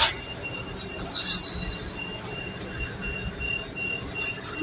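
Commuter train coming into a station, heard from inside the carriage. The wheels rumble low on the rails under a thin high squeal that pulses on and off.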